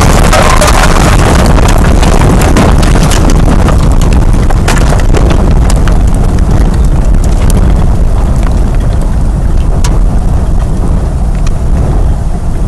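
An EF4 tornado heard from inside a house it is striking: a loud, unbroken rush of wind buffeting the microphone, with many sharp cracks and bangs of debris hitting. The cracks come thickly at first and thin out toward the end.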